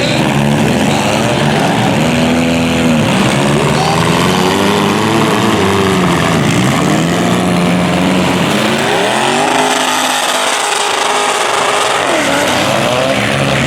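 Several demolition derby car engines revving up and easing off again and again, their pitches rising and falling over one another.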